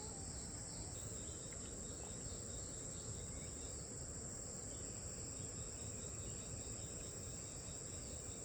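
Insects, crickets or similar, chirring steadily in one continuous high-pitched drone, faint, over a low background rumble.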